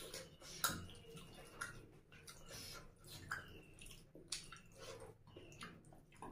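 Close-up wet chewing and lip-smacking of a person eating rice and curry by hand, with squelching as fingers mix the rice and curry on a plate: irregular clicks and smacks, the sharpest about two-thirds of a second in.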